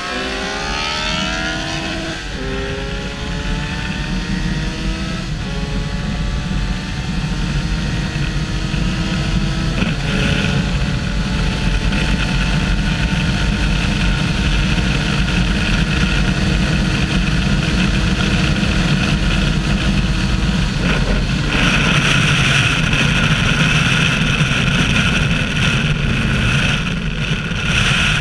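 Kawasaki Versys 1000's inline-four engine accelerating hard, its pitch climbing and dropping back at three upshifts in the first ten seconds, then holding a steady high pitch at high road speed. Wind rushes on the microphone throughout, and about two-thirds of the way through it grows much louder and covers the engine.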